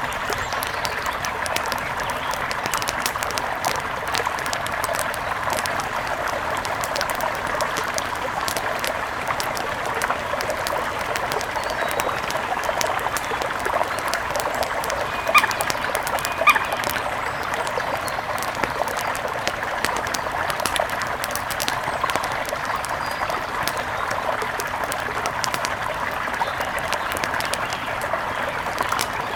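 Steady nature ambience: a dense bed of birdsong over a rushing, crackling noise, with two short, sharp calls about halfway through.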